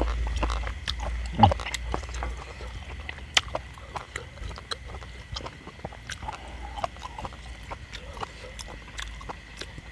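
Eating sounds of a man chewing with his mouth close to the microphone: a run of short, irregular lip-smacking and chewing clicks, with chopsticks clicking against the bowl. About a second and a half in there is a brief falling hum of the voice, and a low rumble in the first few seconds.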